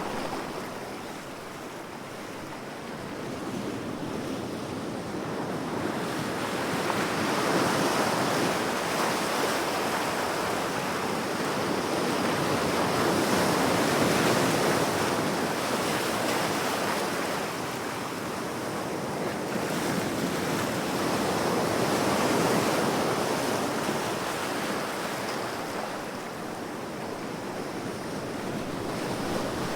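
Ocean waves washing onto a shore, a continuous rushing surf that swells and ebbs in slow surges every several seconds.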